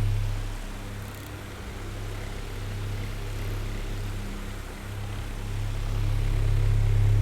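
Oscillating electric fan running: a steady low hum under a hiss of airflow. The sound fades about half a second in and swells back up after about five seconds as the head swings away and back.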